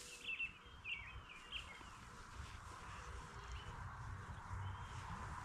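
Songbirds calling: a quick run of short, hooked chirps in the first second and a half, then a few fainter calls. Under them a low rumble of wind on the microphone that grows louder toward the end.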